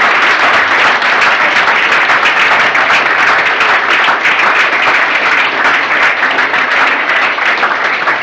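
An audience applauding: many people clapping in a loud, steady round of applause, with no single clap standing out.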